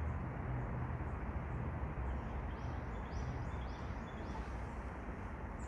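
Steady outdoor background noise, with a small bird chirping four times in quick succession around the middle.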